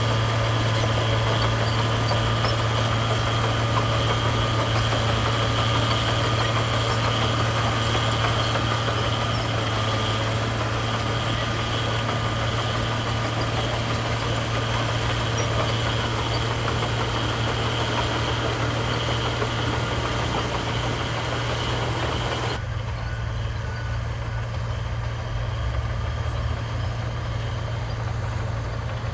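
Heavy diesel construction machinery running steadily, a constant low engine hum with some higher whine over it. Near the end the higher-pitched noise drops away abruptly, leaving mainly the low engine hum.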